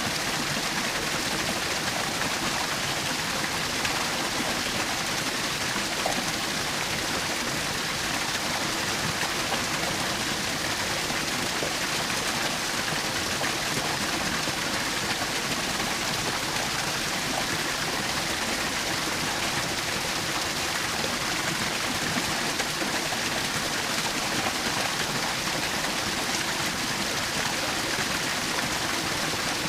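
Small waterfall running: a steady, unbroken rush and splash of falling water.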